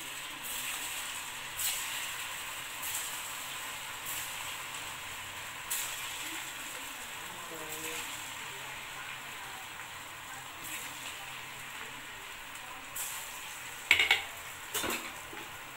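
Garlic potato bites deep-frying in hot oil: a steady sizzle with scattered pops and crackles. Two sharp knocks near the end are the loudest sounds.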